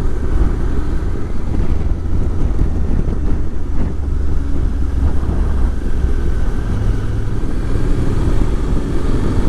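Motorcycle running steadily at road speed, a low engine drone mixed with wind rush on the rider's microphone.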